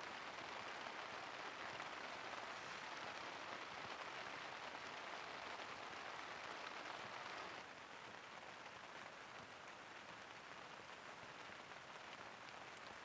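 Steady rain falling on a tent and tarp, which drops abruptly to a quieter rain about two thirds of the way through.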